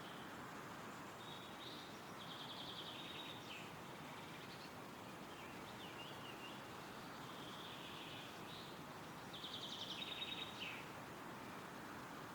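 Wind rustling steadily through trees, with songbirds singing short chirping phrases and fast trills; the loudest trill comes about ten seconds in.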